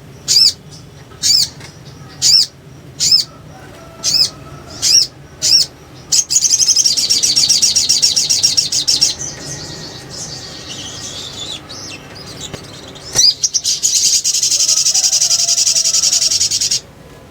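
Little spiderhunter calling: a string of sharp, high single notes about one a second, then a long rapid chattering trill about six seconds in, a softer chatter, and a second long rapid trill that cuts off suddenly near the end.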